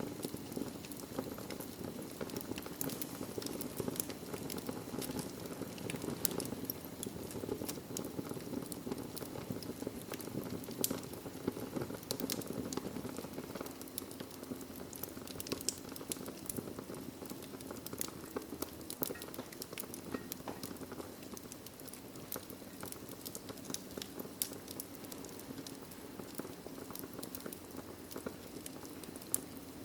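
Wood fire crackling in a fireplace: frequent small, sharp pops and snaps at irregular intervals over a steady low rush of burning flames.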